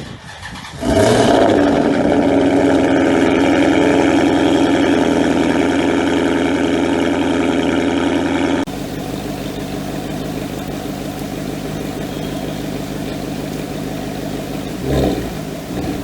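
Maserati Quattroporte engine cold-starting about a second in, catching with a loud flare and settling into a fast, steady cold idle. After an abrupt cut it idles lower and quieter, with a short blip of revs near the end.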